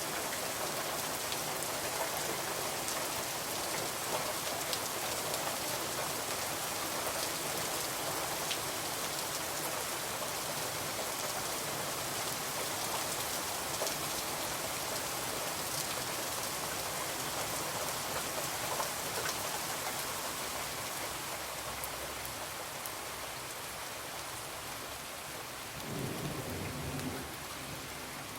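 Steady rain falling on a window, with scattered small ticks of drops, and a brief low rumble of thunder near the end.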